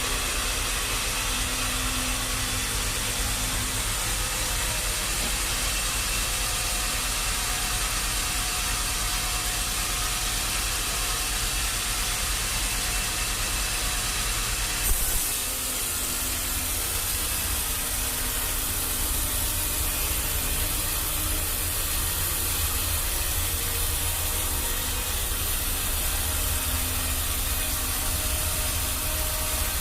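Sawmill machinery running steadily, with a low rumble and a hiss. The sound changes abruptly about halfway through, with a brief knock at the change.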